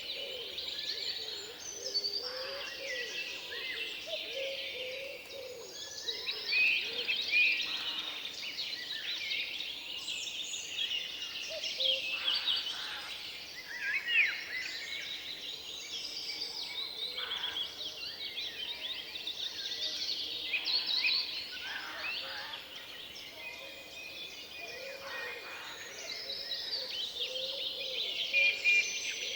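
Woodland bird chorus: many songbirds singing and chirping over one another, with fainter, lower calls underneath.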